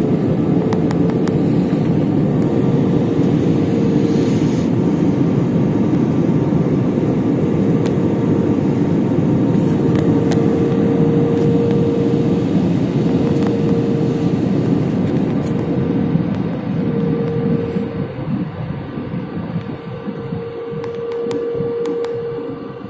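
Airliner engine and airflow noise heard inside the cabin on the approach to landing: a steady deep rumble with a held hum over it. The noise grows quieter and more uneven over the last several seconds.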